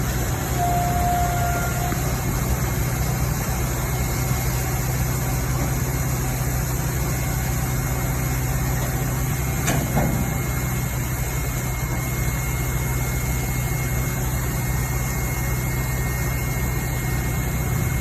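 Vacuum truck engine running steadily at idle, a constant low hum, with a single sharp knock about ten seconds in.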